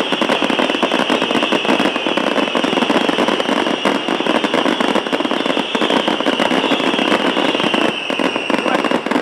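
Fireworks finale barrage: a dense, continuous run of bangs and crackles with no let-up. A high whistling tone runs through it, slowly dropping in pitch, and stops near the end.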